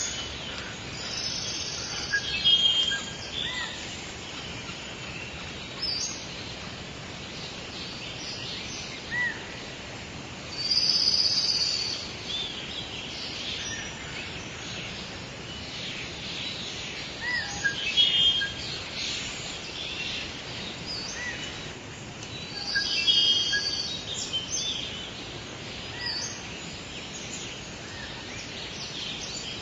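Birds chirping and singing in short phrases every few seconds over a steady background hiss.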